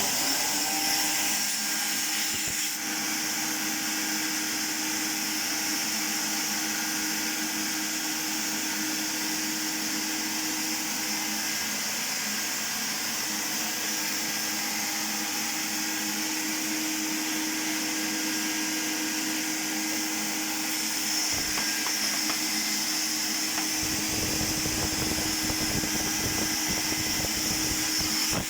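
Zelmer vacuum cleaner motor running steadily, a high whine with a whooshing airflow, powering it for spray-painting. About three-quarters of the way through, a deeper rushing joins in.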